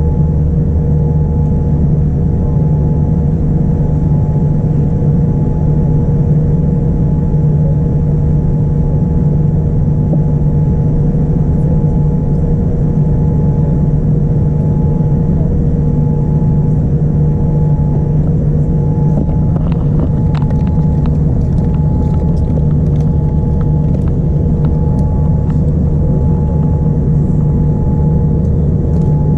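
Steady drone of a Boeing 787-9's jet engines and airflow heard inside the passenger cabin, with several steady hum tones. Faint light clicks scatter through the second half.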